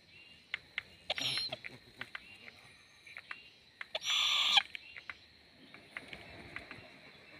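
Young owl giving two short raspy, hissing calls, about a second in and a louder one about four seconds in, with scattered sharp clicks between them.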